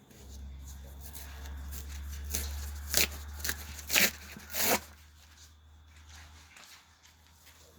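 Hands crumpling and breaking dry tinder to lay a campfire: a steady rustle with three sharp cracks about three, four and nearly five seconds in, over a low rumble that stops near the end.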